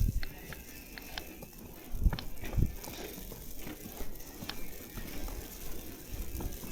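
Footsteps crunching through fresh snow: irregular light crackles and ticks, with a few heavier low thumps at the start and about two seconds in.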